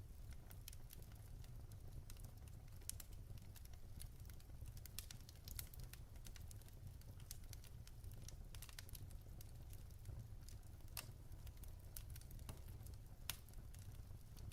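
Log fire burning in a fireplace: irregular sharp crackles and pops of burning wood over a steady low rumble, with a louder pop near the end.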